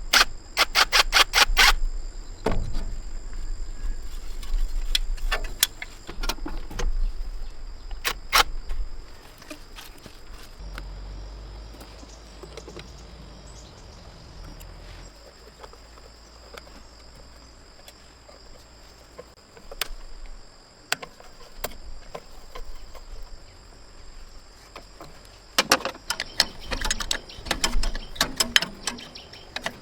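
Bursts of sharp clicks and knocks, like hand work on metal parts: a fast run of about eight strikes in the first two seconds, scattered knocks after, and another cluster near the end. Underneath runs a steady high drone of insects.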